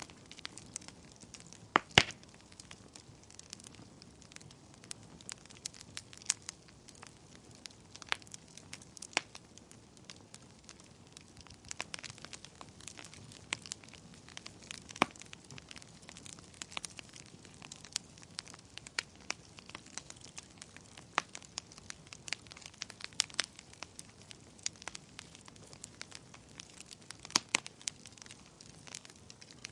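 Wood fire crackling in a fireplace: irregular sharp pops and snaps over a faint steady hiss, with the loudest pops about two seconds in, about halfway through and near the end.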